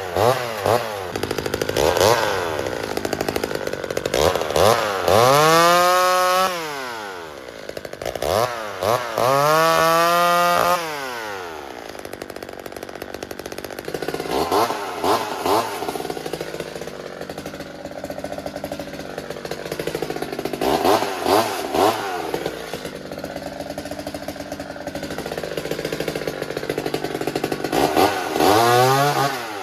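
McCulloch Mini Mac 35 chainsaw, a small two-stroke just under 33 cc, revving in quick throttle blips, held at high revs twice for a second or two about five and ten seconds in, then running lower with occasional blips and a last rev near the end.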